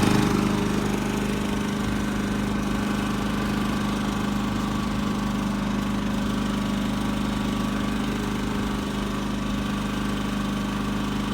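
Champion 3400 watt inverter generator running on gasoline, its single-cylinder engine holding a steady speed with an even hum.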